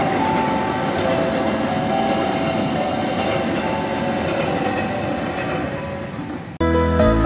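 Passenger train coaches running past at speed: a steady rumble and rattle of wheels on rail with a few steady high tones over it, fading as the last coach clears. About six and a half seconds in, music cuts in suddenly.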